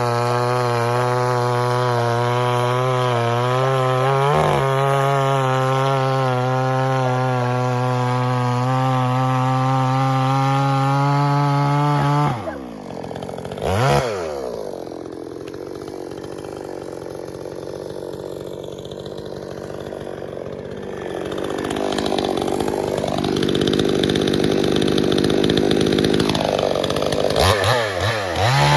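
Gas chainsaw running at high revs with a steady engine tone, dropping back about twelve seconds in with a brief blip of throttle, then running quieter before revving back up to high speed near the end.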